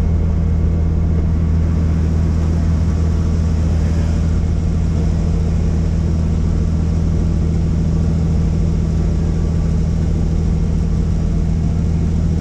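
Helicopter running with a steady, loud low drone of rotor and engine.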